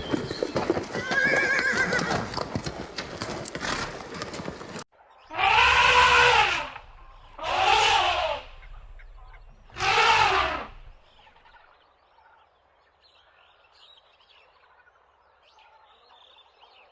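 Horse sounds. First comes a dense clatter of hooves with one call over it. After a sudden cut there are three loud horse neighs, each about a second long and about two seconds apart, and then faint high chirps.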